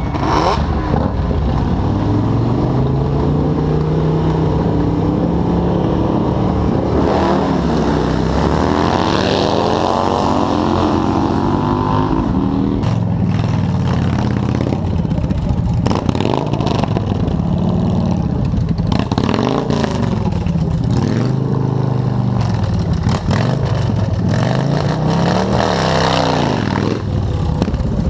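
Motorcycle engines revving and accelerating, their pitch climbing and falling back several times as the throttle is opened and closed, with short bursts of noise through the second half.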